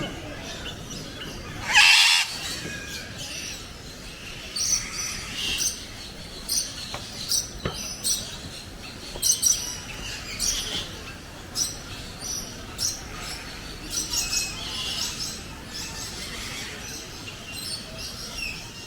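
Birds chirping and calling in short, repeated notes, with one louder call about two seconds in.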